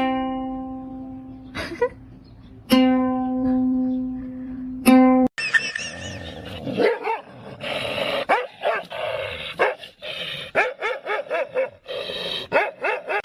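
Four plucked-string notes, each ringing and fading. Then, about five seconds in, the sound cuts to a dog barking over and over against music.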